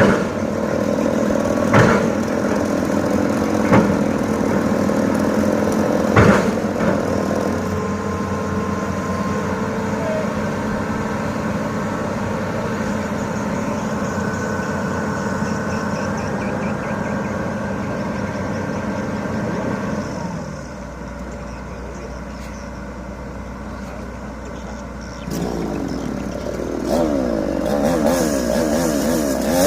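Excavator engine running steadily, with several sharp knocks in the first few seconds. The engine drops quieter about two-thirds of the way through, then a wavering, revving motor note comes in near the end.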